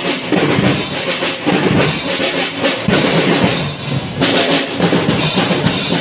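A school marching drum band playing: snare and bass drums beating a steady rhythm under sustained melody notes from the band's pitched instruments.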